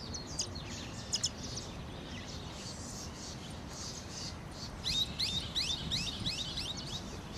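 Wild birdsong: scattered high chirps, then from about five seconds in a quick run of rising chirps, over a steady outdoor hiss.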